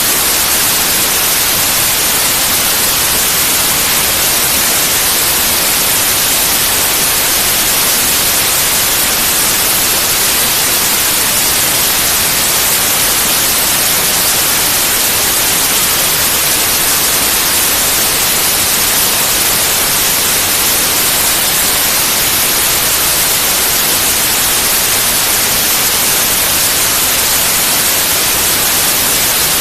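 Steady, unbroken white noise: an even, loud hiss with no changes or events.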